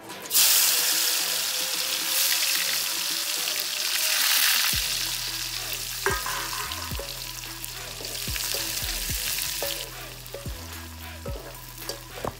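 Dried anchovies hit hot oil in a wok with a sudden loud sizzle just after the start. They fry hard while being stirred with a metal slotted spatula, and the sizzle eases off near the end.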